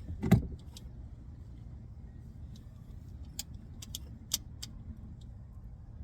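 A dull knock, then a handful of sharp, light clicks and clinks like small metal pieces tapping, over a steady low rumble.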